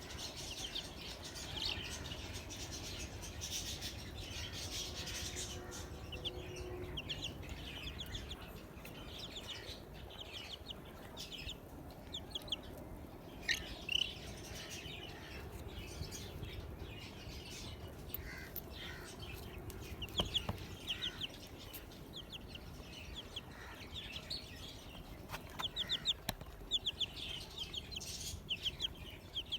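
Newly hatched chicks peeping: many short, high chirps in quick runs, with a few sharp taps.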